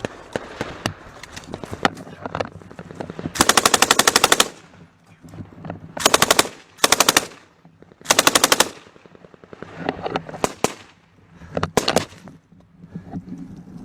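Machine gun firing close by in four rapid bursts of half a second to a little over a second each, with scattered single gunshots between and after them.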